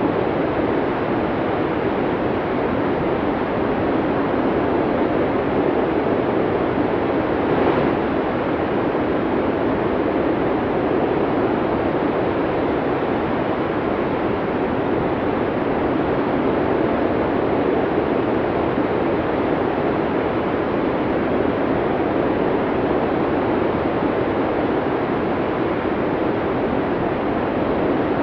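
Snowstorm wind blowing as a steady, unbroken rush of noise, with no gusts rising or falling.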